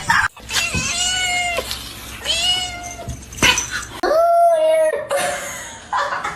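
Domestic cat meowing: three drawn-out meows, each rising and then falling in pitch, with a few sharp clicks between them.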